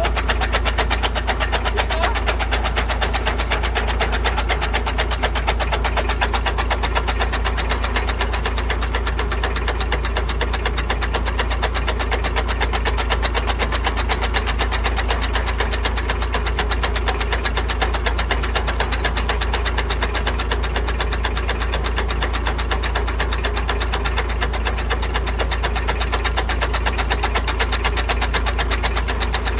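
Tractor diesel engine running steadily with a fast, even firing beat and a deep rumble.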